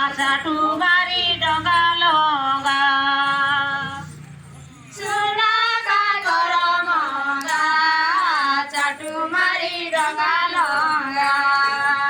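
Women's voices singing a tribal folk song without instruments. The singing breaks off about four seconds in and comes back about a second later.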